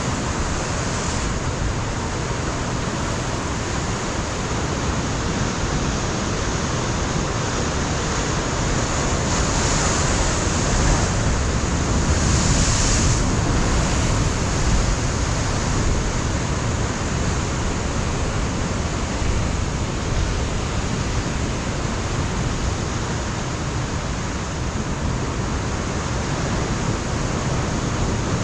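Ocean surf breaking and washing against a rocky shoreline, a continuous rushing roar of waves with wind on the microphone; the surf swells louder partway through.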